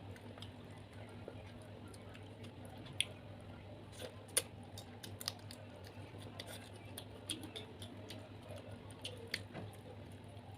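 Eating large prawns close to the microphone: scattered sharp clicks and cracks of shell with soft wet chewing, over a steady low hum.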